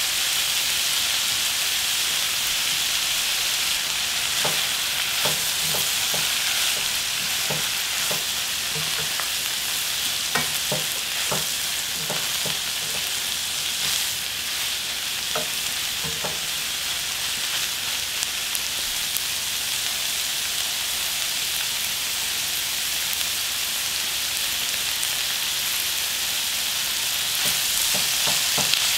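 Sweet potato stems sizzling steadily as they stir-fry in a nonstick frying pan. Wooden chopsticks click against the pan now and then, most often in the first half and again near the end.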